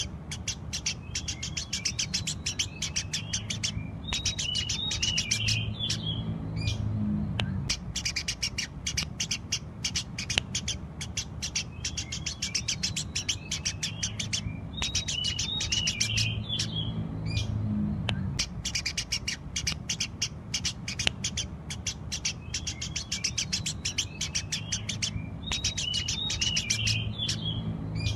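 Eurasian tree sparrow chirping: a rapid, continuous string of short, sharp chirps. Every ten seconds or so there is a short burst of twittering.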